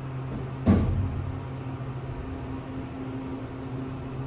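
ThyssenKrupp hydraulic elevator humming steadily, the kind of low electrical hum a hydraulic pump motor makes while the car travels. A single sharp knock comes less than a second in.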